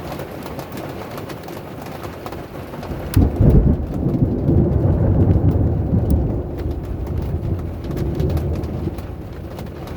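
Steady rain falling, then about three seconds in a loud thunderclap breaks into a deep rumble that rolls on for several seconds before fading.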